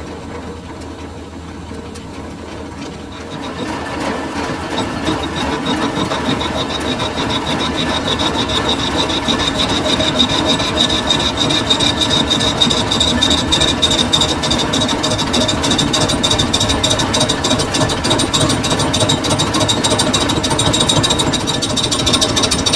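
Metal lathe running. From about three and a half seconds in it grows louder, with a steady gritty cutting noise and a high ringing tone as a tool turns a metal part.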